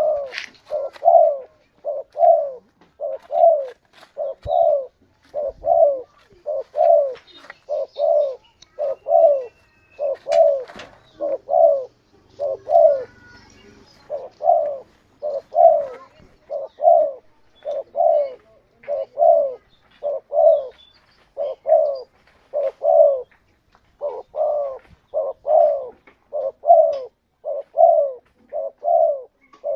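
Spotted dove (tekukur) cooing over and over, low hollow notes about one a second, with a couple of short breaks. Faint chirps from other small birds sit behind it.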